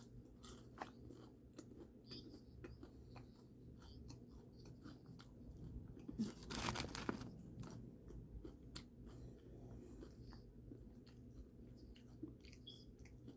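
A person chewing and crunching fried food up close, with scattered crisp crackles and a louder run of crunching about halfway through.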